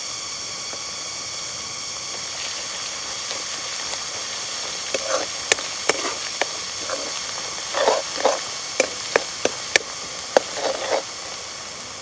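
Sliced onions and spices frying in oil in a metal wok, a steady sizzling hiss. From about five seconds in, a metal spatula stirs them, with sharp clinks and short scrapes against the wok.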